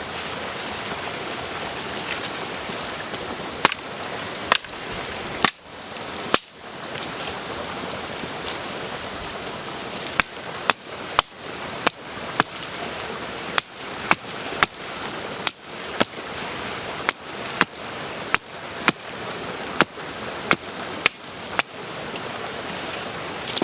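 Sharp chopping strikes over the steady rush of a stream: a few scattered blows at first, then about two a second through the second half.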